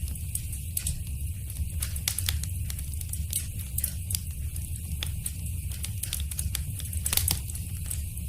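Wood fire in a fireplace crackling, with frequent sharp pops over a steady low rumble of the burning; a louder cluster of pops comes about seven seconds in.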